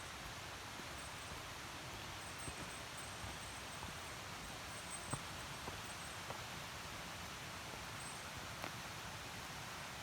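Mountain stream running over shallow rapids: a steady, even rush of water, with a few faint ticks.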